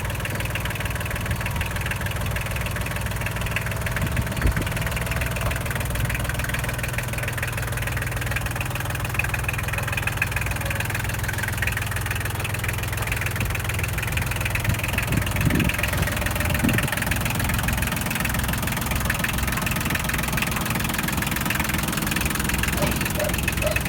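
Kubota L2402DT tractor's diesel engine idling steadily.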